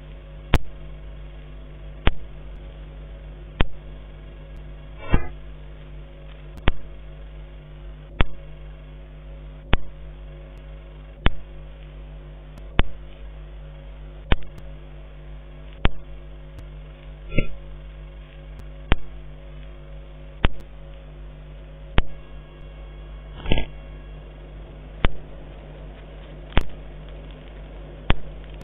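Sharp clicks, one about every one and a half seconds, over a steady electrical hum. A few longer, broken chirping sounds come at about 5, 17 and 23 seconds in.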